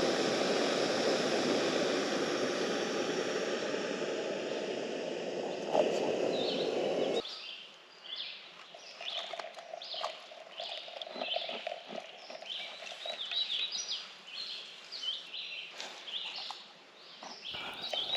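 A steady rushing noise cuts off suddenly about seven seconds in. After it, birds sing in quick, short chirps over quiet ambience.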